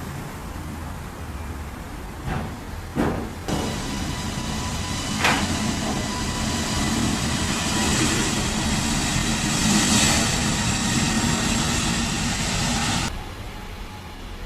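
Airbus A320neo jet engines running: a steady roar with a layered high whine that starts abruptly a few seconds in and cuts off abruptly near the end, over a low rumble, with a few sharp knocks shortly before the roar starts.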